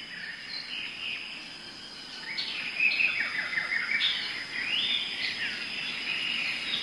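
Outdoor birdsong ambience: several birds chirping and whistling in short phrases, getting busier about two seconds in, over a steady high-pitched tone.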